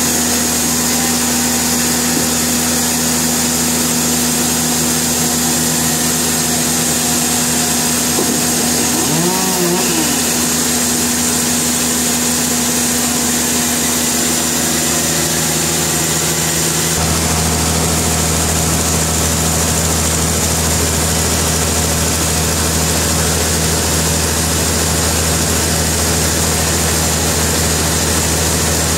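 Sawmill machinery running steadily with an engine-like hum. A brief wavering tone comes a little before halfway, and a little over halfway through the low rumble shifts and grows stronger.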